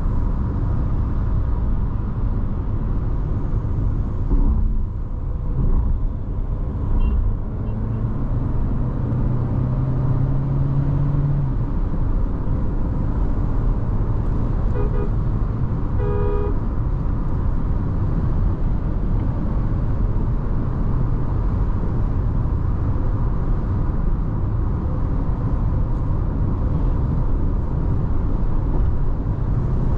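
Steady road and tyre noise inside the cabin of a Nissan Tekton SUV cruising on the highway, the 1.3-litre turbo petrol engine barely heard. A vehicle horn honks briefly twice about halfway through, the second honk louder.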